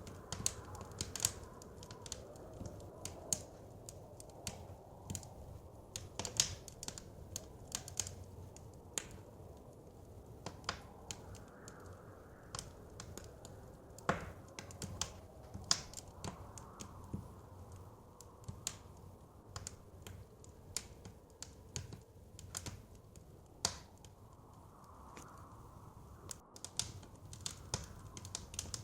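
Wood fire crackling in a fireplace: irregular sharp pops and snaps over a steady low rumble and hiss, with soft swells of wind behind.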